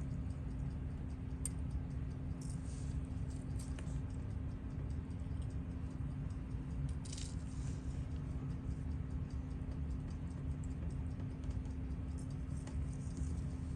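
Steady low electrical hum from the bench recording, with faint regular ticking and a few light metallic clicks of small tools on a watch movement being taken apart.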